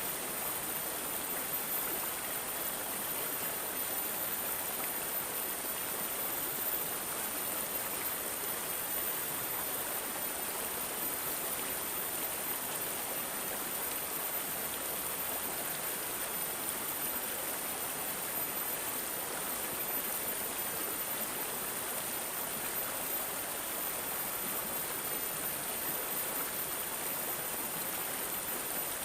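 Stream water babbling and gurgling steadily, with no breaks, and a thin, steady high-pitched tone above it.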